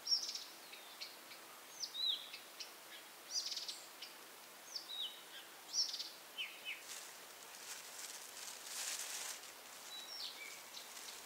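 Small songbirds singing: short high chirps and quick falling whistled notes, one every second or so, with a soft rustle a little after the middle.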